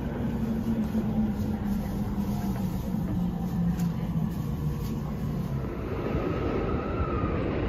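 Electric commuter train running, heard from inside the carriage: a steady rumble with a low hum that slowly falls in pitch over several seconds as the train slows.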